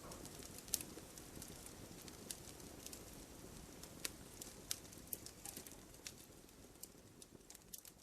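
Campfire burning: a steady low rush of flames with sharp crackles and pops from the burning wood, the loudest pop about a second in.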